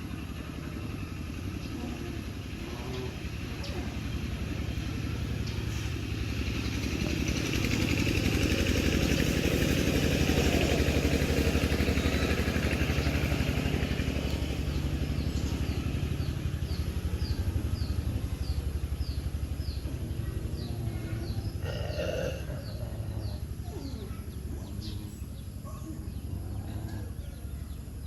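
A motor vehicle's engine running, growing louder about seven seconds in and easing off after about fourteen seconds, as if passing. In the second half comes a run of short high chirps, about two a second.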